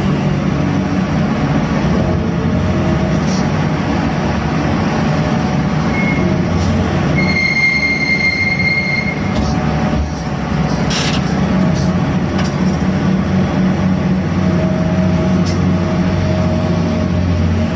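Gut ship's grab crane working cargo: its engine and winch machinery run loudly and steadily. A high, steady squeal lasts about two seconds near the middle, and a few short clicks are scattered through.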